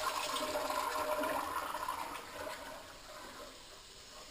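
Public restroom toilet flushing: a loud rush of water with a steady whistling tone in it, dying down about two seconds in.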